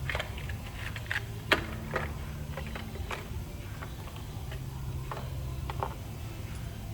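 Scattered light clicks and taps of small metal tools and a spark plug being handled while its gap is checked, over a low steady hum.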